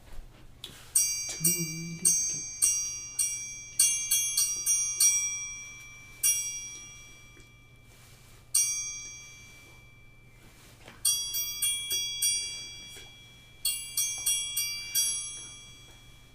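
Tuned metal percussion struck note by note, each bell-like note ringing and dying away, playing short runs of a melody with pauses between them.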